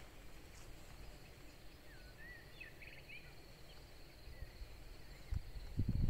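Faint countryside ambience. A small bird gives a brief run of twittering chirps about two seconds in, over a thin steady high buzz and a low rumble. Low thumps begin near the end.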